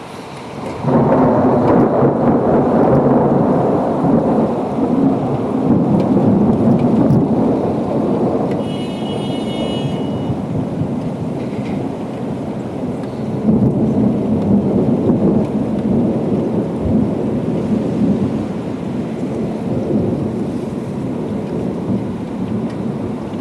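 Loud rolling thunder that breaks suddenly about a second in and rumbles on for many seconds, swelling again midway before slowly dying down, over steady rain.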